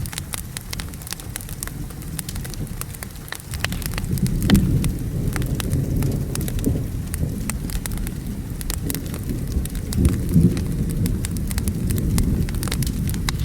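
Steady rain with a crackling fire's sharp pops and snaps, and low rolling thunder that swells about four seconds in and again about ten seconds in.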